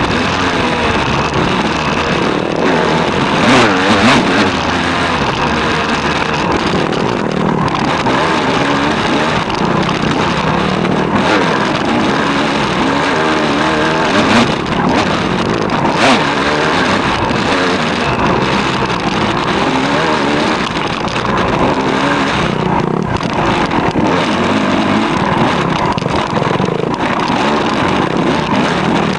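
Dirt bike engine heard close up from the handlebars, its revs rising and falling over and over, with wind noise and a few sharp knocks.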